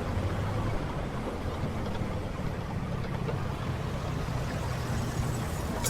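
Motorcycle engine running steadily at low speed, heard from the rider's seat, over a constant rush of traffic noise.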